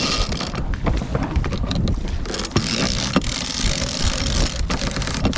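A sailboat's sheet winch is cranked, its pawls ratcheting in irregular clicks as the genoa is sheeted in during a tack. Wind rushes over the microphone.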